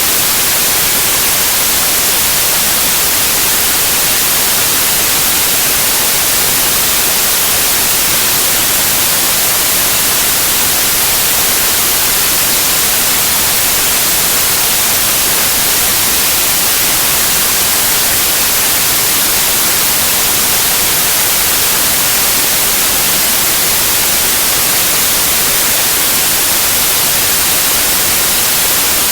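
Steady, unchanging white noise: a loud, even hiss, strongest in the treble, with no other sound.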